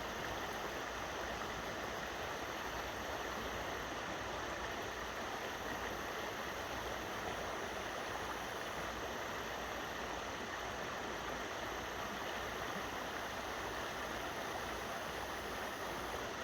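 Steady rushing of river water spilling below a dam, an even, unbroken noise.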